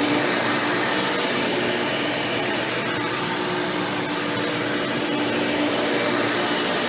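Hoover Power Drive Supreme vacuum cleaner running steadily. Its motor, fitted with an upgraded 20-blade impeller fan, gives a steady hum of tones over an even rush of air.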